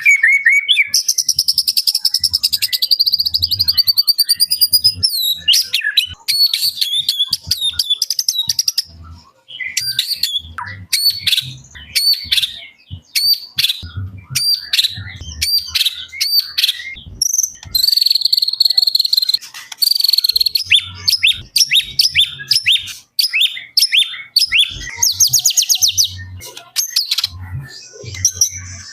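White-rumped shama (murai batu) singing a loud, rapid, varied song: long fast rattling trills mixed with quick whistles and short harsh chattering notes.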